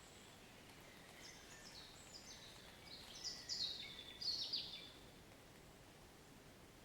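A songbird sings a phrase of quick, high, downward-slurred notes, starting about a second in, growing louder, and ending after about five seconds. A faint, steady rain hiss runs underneath.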